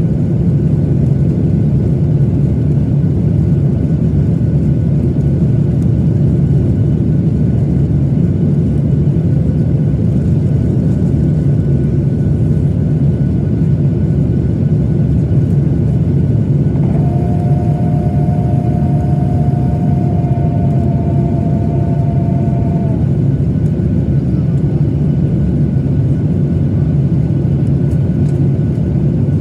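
Steady roar of engine and air noise inside the cabin of a Boeing 737-900ER. About halfway through, a steady two-note tone sounds for about six seconds, dipping slightly in pitch as it ends.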